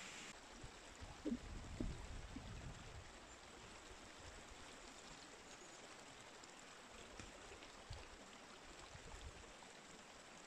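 A forest river flowing and trickling, faint and steady, with a few low thumps about one to two seconds in.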